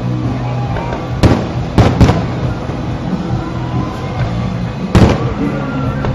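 Fireworks bursting: four sharp bangs, one about a second in, two in quick succession near two seconds, and one near five seconds, over steady background music.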